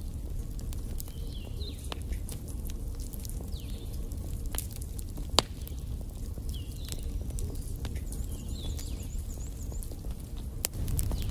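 Wood fire burning in a fireplace: steady low rumble of the flames with scattered sharp crackles and one louder pop about halfway through.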